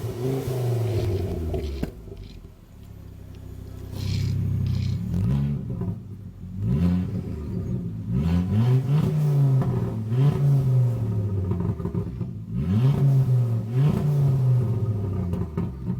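Ford Focus ST engine being revved repeatedly through an aftermarket Mongoose exhaust fitted with a Guerrilla Bypass valve, the pitch climbing and falling back with each blip, with a quieter lull of a couple of seconds near the start.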